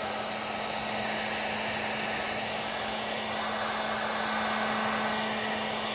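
Electric heat gun running steadily: an even rush of blown air with a constant low hum from its fan motor.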